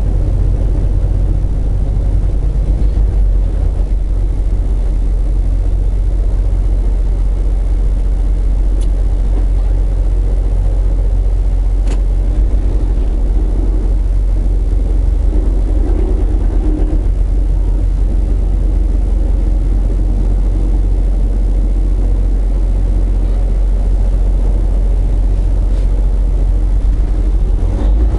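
Semi truck's diesel engine running with steady low road rumble, heard inside the cab while driving. A couple of faint clicks come through in the first half.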